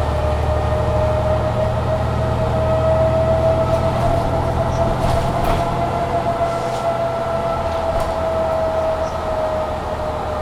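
Mercedes-Benz Citaro C2 G articulated bus under way, heard from inside: engine running with a high whine that slowly rises in pitch and then falls away, over road noise.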